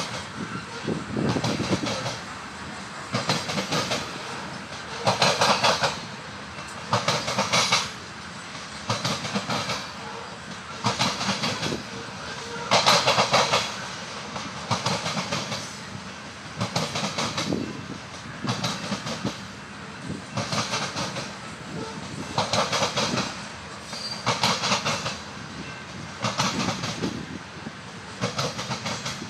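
Heavy freight train of covered hopper cars rolling past, the wheels slamming over a diamond crossing in a clattering burst about every two seconds, with a steady rumble between.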